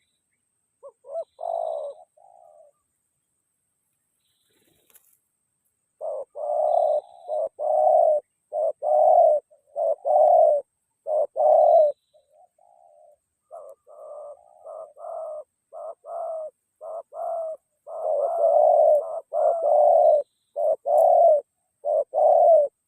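Spotted doves (tekukur) cooing: a run of short, low coo notes, about one or two a second, with a short break about halfway through and some notes quieter than others.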